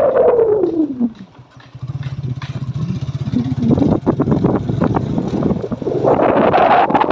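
Motorcycle engine dropping in pitch as it slows off the throttle, chugging at low revs for a couple of seconds, then picking up and revving higher again.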